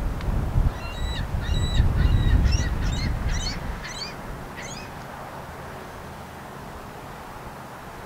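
A bird calling in a quick series of about eight short calls over some four seconds, then stopping. Under it, a low rumble of wind on the microphone is strongest in the first few seconds and then eases off.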